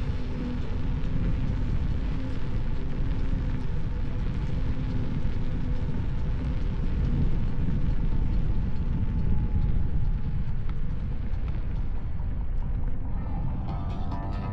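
Heavy wind noise buffeting the camera microphone, a dense low rumble with no clear events. A plucked-string music track fades in near the end.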